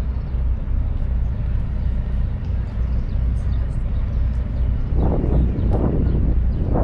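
Busy city street ambience: a steady low rumble of traffic, with voices of passersby coming in about five seconds in.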